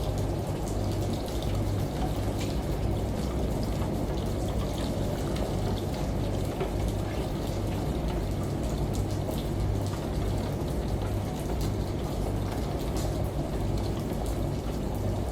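Layered ambient mix of steady running water and falling drops, like a shower and rain, over a low hum that pulses on and off, in keeping with a washing machine.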